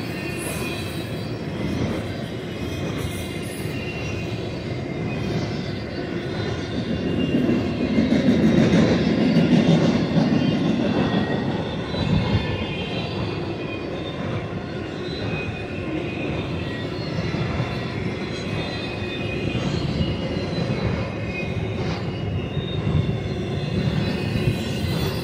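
Intermodal spine cars loaded with truck trailers rolling by, a steady rumble of steel wheels on rail with high thin wheel squeal over it. The rumble swells loudest about a third of the way through.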